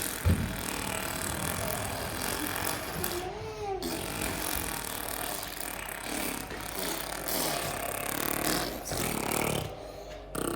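Children making funny noises with their mouths, with a short rising-then-falling vocal glide about three and a half seconds in.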